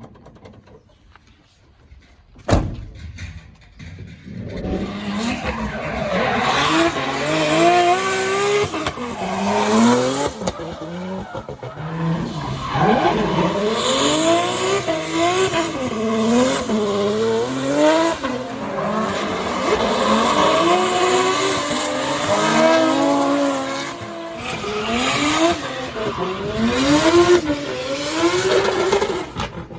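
Toyota 2JZ straight-six engine in a drifting BMW E36, revved up and down again and again through the slides, with tyre squeal. There is a single sharp bang about two and a half seconds in, before the car comes within earshot.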